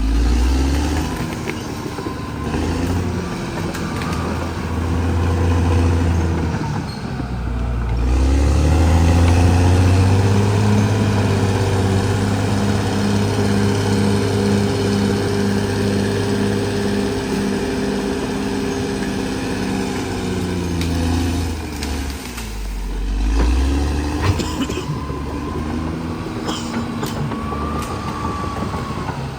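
Caterpillar D6R XL bulldozer's diesel engine working. Its speed dips and climbs back in the first few seconds, holds steady and high through the middle, then drops and rises again near the end.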